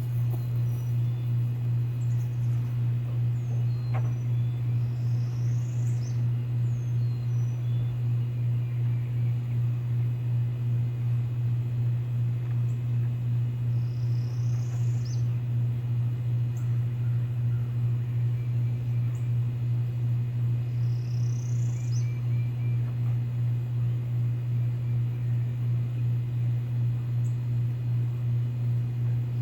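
A steady low machine hum with a fast regular pulse, with a bird calling over it: short rising chirps repeated every seven or eight seconds.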